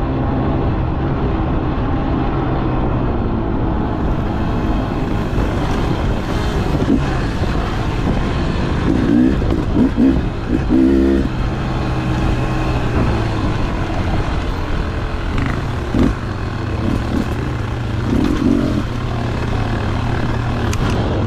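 Two-stroke dirt bike engine running under way, holding a steady note, with quick throttle changes that bend the pitch up and down near the middle and again near the end.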